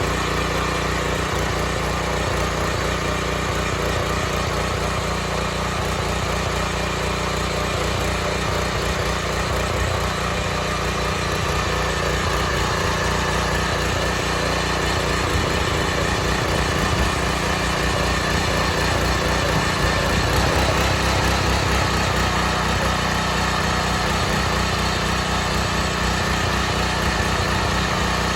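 Kaan 230S petrol tiller running steadily under load as its tines work hard, untilled soil, getting a little louder about two-thirds of the way through.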